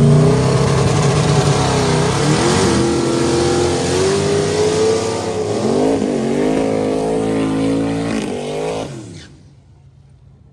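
Twin-turbo LS V8 drag car's engine running hard at high revs, its pitch dipping and recovering twice, typical of gear changes. The sound stops abruptly about nine seconds in.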